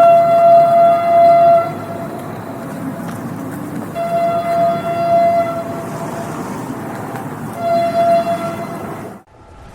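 Train horn sounding three blasts, two long and one short, over the steady rumble of a passing train. The sound drops out abruptly near the end.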